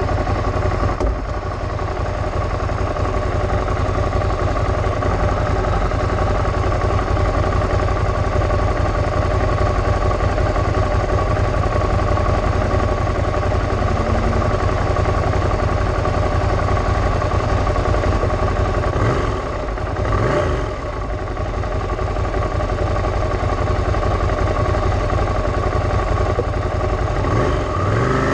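Ducati Scrambler Cafe Racer's air-cooled L-twin engine idling steadily, with a brief rise and fall in pitch about two-thirds of the way through and again near the end.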